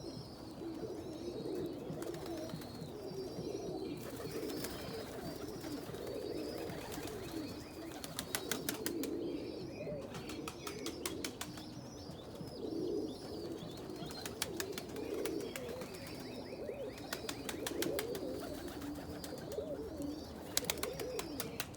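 A flock of domestic pigeons cooing continuously in a loft, with high, repeated chirping calls over the top. Several times there are short runs of rapid sharp clicks.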